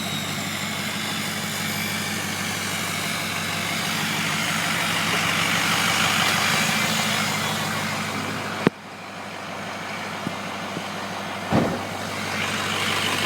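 2005 Ford F-350's 6.0 Powerstroke V8 turbo-diesel running with the exhaust removed, so its turbo whistles and hisses openly over the steady engine note. The whistle swells and then eases off. There is a sharp click about two-thirds of the way through, after which the sound drops, and a short louder burst comes near the end.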